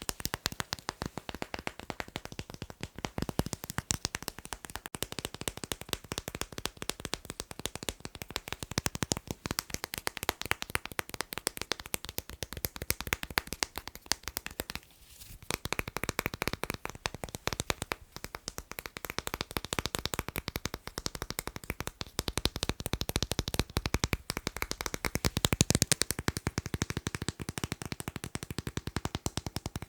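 Fast, continuous tapping on magnets, a rapid stream of sharp little clicks, with a brief pause about halfway through.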